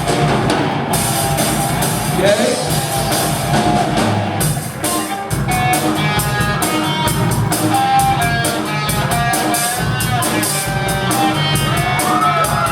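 Rock band playing live: drum kit with electric guitars and bass guitar, loud and steady.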